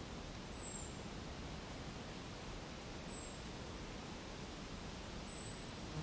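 Soft steady wind hiss through foliage, with a small bird repeating a high, thin, slightly falling whistle about every two and a half seconds, three times.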